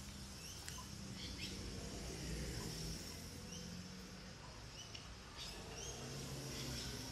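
Birds chirping: short rising chirps repeated every second or so, over a low steady outdoor rumble.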